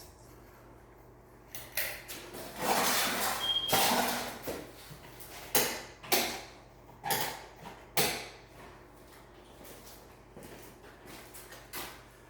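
A series of sharp clicks and knocks with a stretch of scraping, from hands working a ceiling fan's light fitting while a bulb is put in to test it, with a brief high ping in the middle.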